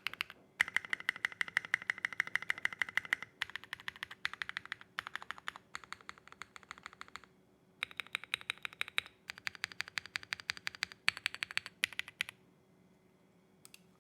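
Space65 mechanical keyboard with SA profile keycaps, lubed Matcha switches and its case foam removed, typed on in fast runs of keystrokes. The typing pauses briefly about halfway through and stops near the end, with a couple of faint clicks after.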